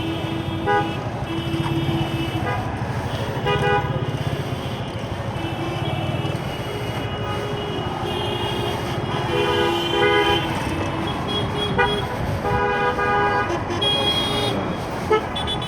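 Vehicle horns honking again and again in traffic, a mix of short beeps and toots held for a second or so at several pitches, sometimes overlapping, over motorcycle engine and road noise.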